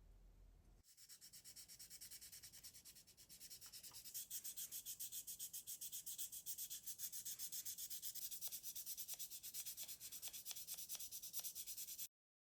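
Plastic model kit part being sanded by hand in quick, even back-and-forth strokes, several a second. The sanding starts about a second in and stops abruptly near the end.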